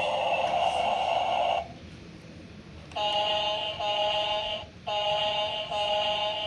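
Electronic sound effects from a battery-powered toy truck's small speaker: a buzzy steady tone that cuts off, then a repeating two-note electronic pattern of short held tones.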